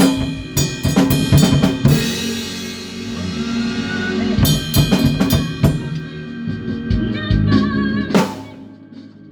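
A band rehearsing: a drum kit plays with bass guitar under it. The drumming thins out in the middle, then ends on a loud hit about eight seconds in that rings away.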